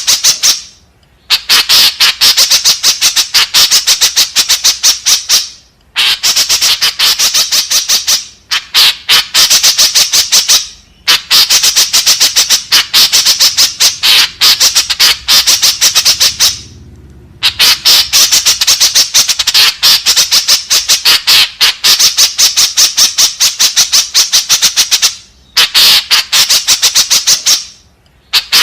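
White-breasted woodswallow (kekep babi) calling: long runs of rapid, repeated high chattering notes, broken by short pauses.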